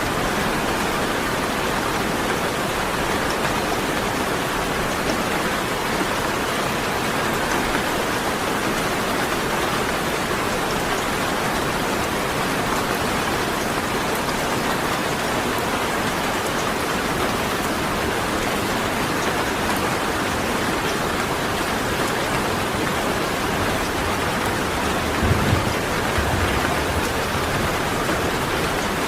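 Steady rain falling, an even dense hiss, with a brief low rumble near the end.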